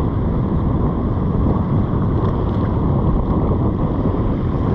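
Wind buffeting the microphone in a steady low rumble, with surf washing in behind it.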